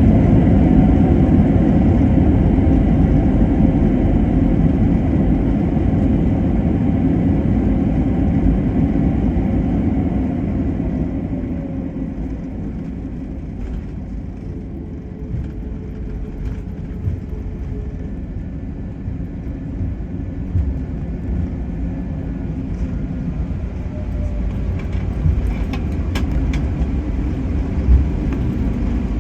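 Airbus A321neo cabin noise on the ground after landing: a heavy rumble with the engine tone sliding down and fading over the first ten seconds or so as the jet slows. It settles into a quieter, steady rumble as the plane rolls along, with a few clicks near the end.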